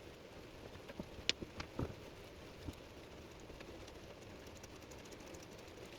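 About five faint clicks and taps in the first three seconds, then only a low room hiss: small metal parts being handled, as tips are swapped on a hot soldering-iron wood-burning pen.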